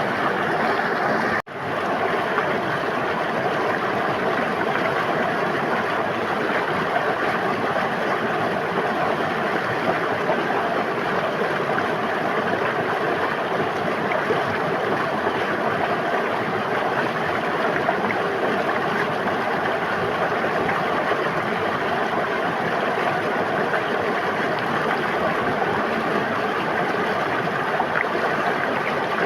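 River water flowing and babbling steadily, with a brief cut-out about a second and a half in.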